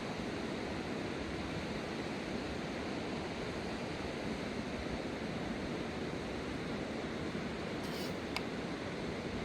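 Fast-flowing river water rushing steadily, with two faint clicks near the end.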